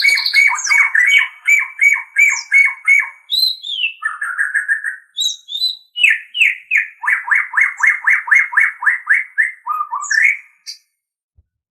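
White-rumped shama (murai batu) singing: fast runs of repeated whistled notes, broken by a falling slurred note and a short buzzy phrase, then another rapid run of about six notes a second that ends shortly before the close.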